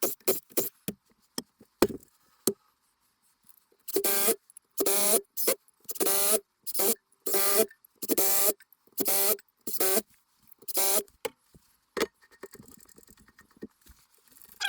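Cordless drill driving the screws that hold a lathe faceplate to a wooden blank, in about nine short bursts of the motor with wavering pitch, preceded by clicks and knocks of the faceplate and screws being handled.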